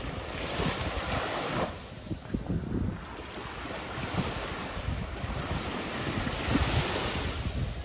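Small waves washing up on a sandy beach, the hiss swelling twice, with wind buffeting the microphone.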